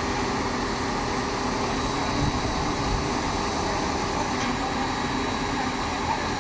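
Heavy machinery running, a steady engine drone with a faint hum through it.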